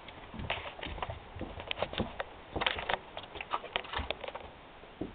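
Handling noise: irregular rustling with many small clicks and taps as a rifle is being set up on a mat to shoot.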